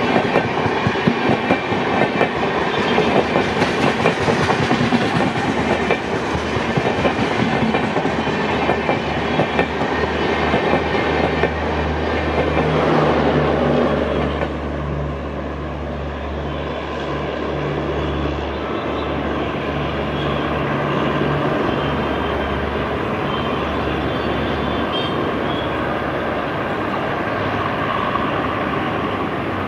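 LHB passenger coaches of a Humsafar Express rolling past, their wheels clattering over the rail joints. The clatter is loudest in the first half and eases about halfway through to a steadier rumble with a low hum underneath that fades out near the end.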